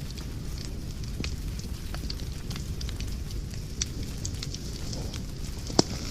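Wood fire crackling in a fireplace: scattered snaps and pops over a steady low rumble of the flames, with one loud pop near the end.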